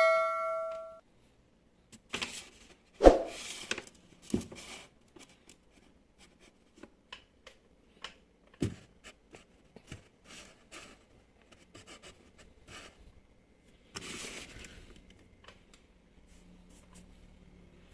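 Handling noises: scattered clicks, knocks and short scraping, rustling stretches, as of packaging and plastic parts being handled. A ringing tone fades out in the first second.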